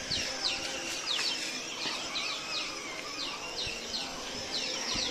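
Small birds chirping: quick high notes that fall in pitch, about three a second.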